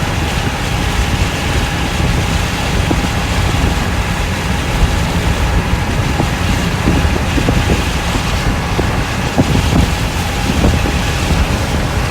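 Car being driven, heard from inside the cabin: a steady low rumble of road and wind noise, with scattered small clicks and rattles in the second half.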